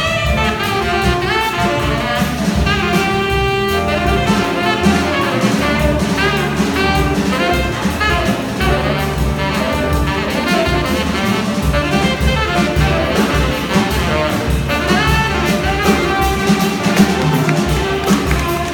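Small jazz combo playing: a tenor saxophone leads with a moving improvised line and one long held note, over piano, guitar, walking bass and drums.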